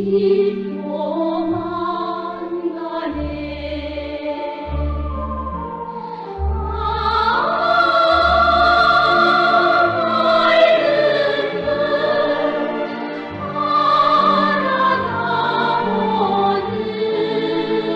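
Music: a choir singing long, held notes in an operatic style over instrumental accompaniment, with deep bass notes in the first half.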